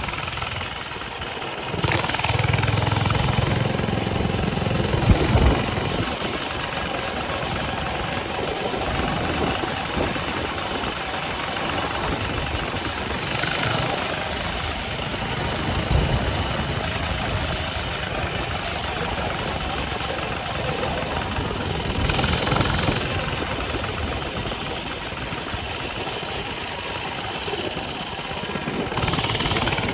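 Coleman mini bike's small single-cylinder four-stroke engine running steadily under way, with wind rushing over the microphone; the level swells a little about two seconds in and at a few later points.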